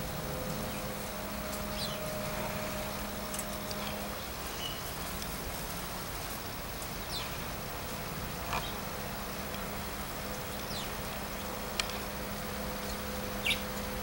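Short, high bird chirps come every second or two, a few louder ones near the end. Under them runs a steady low hum.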